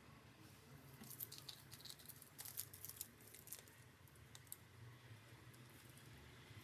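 Faint clicks and scratches, a cluster of short sharp sounds through the middle, over near silence.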